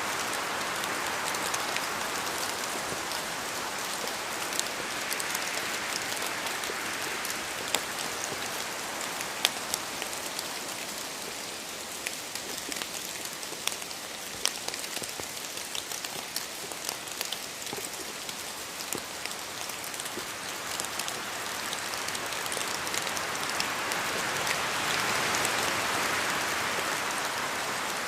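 Steady rain in forest, with individual drops falling from the trees and ticking sharply on the surfaces below. A rush of wind through the trees eases in the middle and swells again near the end.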